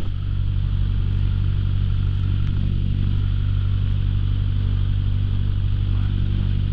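Light aircraft's piston engine idling steadily while it warms up before takeoff, heard from inside the cockpit, with a short knock right at the start.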